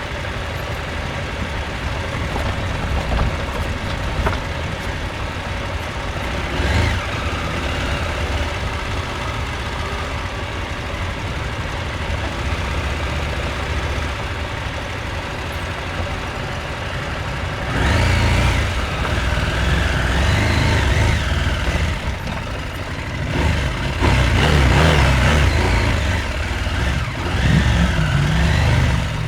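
Husqvarna Norden 901's 889 cc parallel-twin engine running steadily at low revs, then from about halfway revving up and down in several louder surges of throttle.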